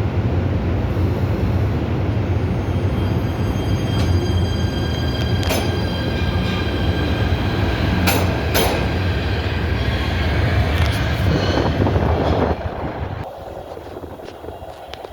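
PATH subway train running on the rails with a heavy low rumble, a thin high whine and several sharp metallic clanks. The sound falls away sharply near the end.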